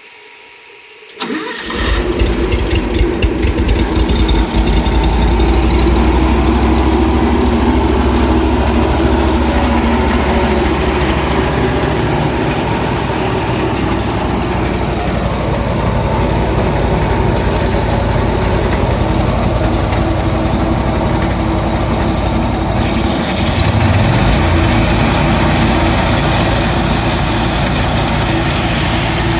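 Honda gas engine on an Edco SS20 walk-behind concrete saw starting about a second in, then running steadily; its low note shifts about 23 seconds in.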